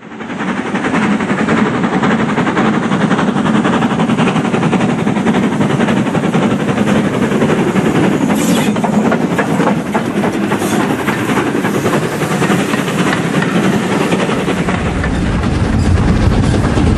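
A model train running on the layout's track, a steady dense rolling sound. A deeper rumble joins near the end.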